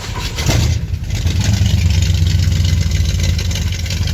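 Cold start of a 1970 Ford F-250's freshly rebuilt 390 V8 with a cammed build and a Holley carburetor at about 27°F. The engine catches about half a second in and keeps running at a steady fast idle.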